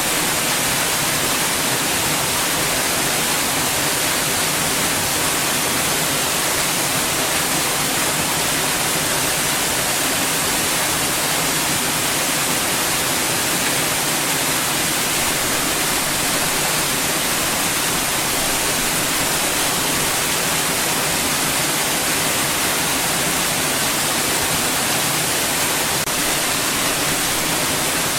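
Steady white noise: an even, unchanging hiss that is strongest in the highs, with no rise, fall or break.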